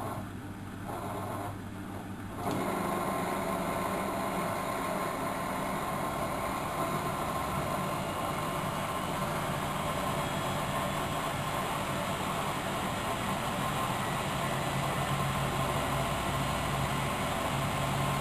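Miele W763 washing machine running: a quieter machine noise steps up suddenly about two and a half seconds in, then runs as a steady noise with a low hum that builds slightly near the end.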